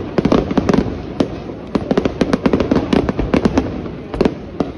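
Aerial fireworks shells bursting overhead: a dense, irregular run of sharp bangs and pops, several a second, as the stars break and crackle.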